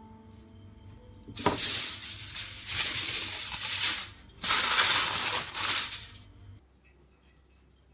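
Two loud bursts of hissing noise, each about two seconds long with a brief break between, starting about a second and a half in.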